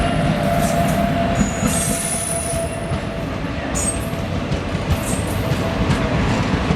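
Train running on the rails: a steady rumble with several short, high-pitched wheel squeals and a steady hum.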